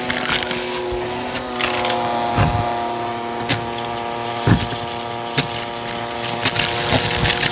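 Bissell CleanView upright vacuum running steadily, its motor giving a steady multi-tone whine, while the crevice tool works a surface, with several short knocks and clatters along the way.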